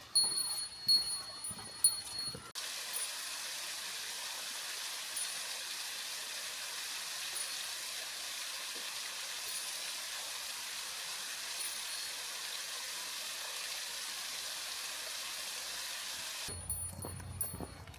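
A small bell jingling among footstep-like thumps. After about two and a half seconds it cuts to a steady rushing of water, with faint bell tinkles now and then. This cuts off suddenly near the end, and the thumps return.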